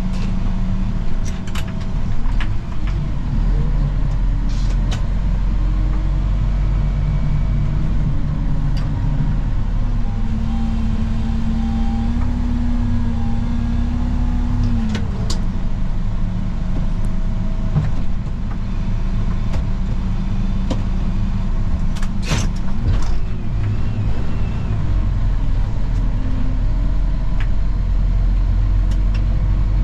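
Snow plow vehicle's engine running steadily under load. Its pitch rises and holds for a few seconds about ten seconds in, then drops back, and there are a few sharp knocks a little past twenty seconds.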